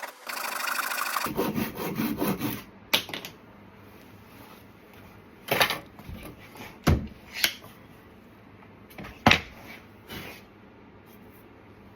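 Hand saw cutting through the glued plywood wedges in the top of an axe handle, a run of quick rasping strokes that stops about two and a half seconds in. Then about six sharp wooden knocks, spaced a second or two apart.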